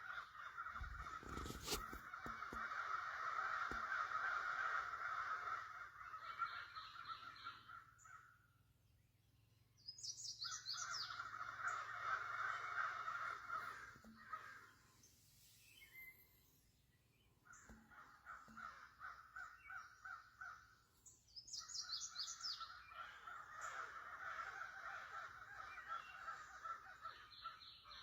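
Birds calling in long chattering bouts of several seconds each, with higher chirps mixed in and short lulls between bouts.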